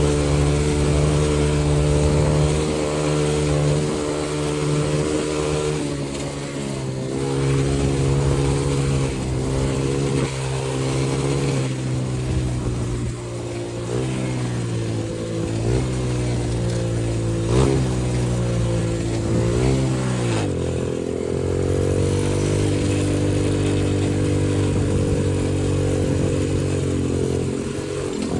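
X-Pro 125cc dirt bike's single-cylinder four-stroke engine being ridden. It holds a steady speed at first, then revs up and down over and over through the middle, drops sharply about two-thirds of the way in, and settles to a steady pitch again.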